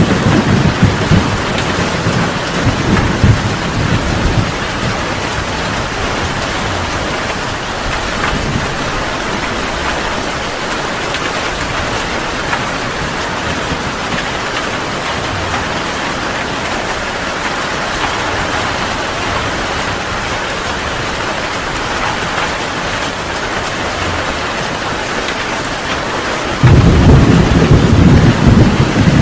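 Heavy rain falling steadily in a thunderstorm. A low thunder rumble dies away over the first few seconds, and a sudden loud peal of thunder rolls in near the end.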